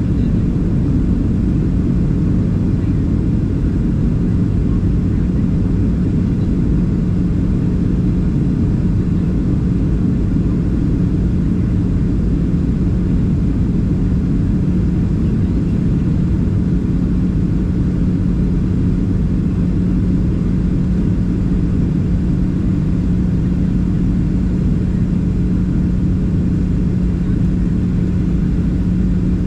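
Steady cabin noise inside a Boeing 737-700 airliner: a constant low engine drone and airflow rush with a steady hum, unchanging throughout.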